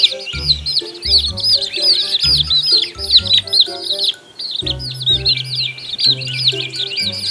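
A group of quail chicks peeping: many rapid high chirps overlapping almost without pause, with a brief lull about four seconds in. Background music plays underneath.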